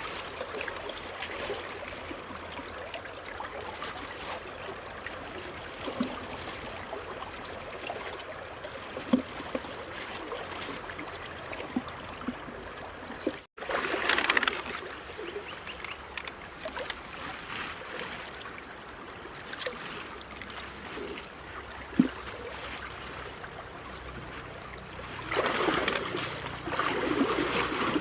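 Water trickling and flowing steadily, with a few small splashes and knocks, and louder splashing near the end.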